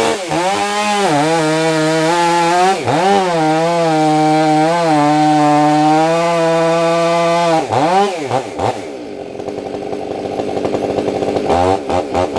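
Two-stroke chainsaw revving up and held at full throttle through a cut for several seconds, its pitch dipping now and then under load. The engine drops off about eight seconds in, runs lower and quieter, then revs briefly again near the end.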